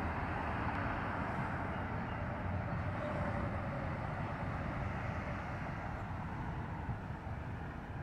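Steady rumble of a long freight train's cars rolling past, mixed with road traffic.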